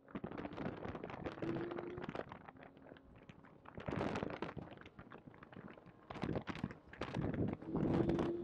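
Porsche 991.2 GT3's 4.0-litre flat-six accelerating hard through second and third gear, its engine note faint and rising near the end under loud, distorted crackling and knocking from a badly placed in-car microphone.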